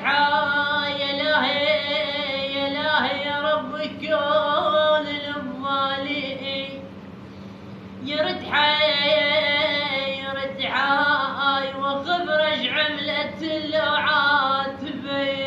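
A solo voice chanting unaccompanied in the ornamented style of an Iraqi Husseini lament. It holds long wavering notes in two long phrases, the second beginning about eight seconds in.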